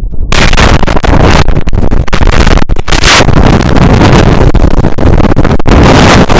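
Strong wind buffeting the microphone, overloading it into loud, crackling noise that jumps up suddenly a moment in and stays.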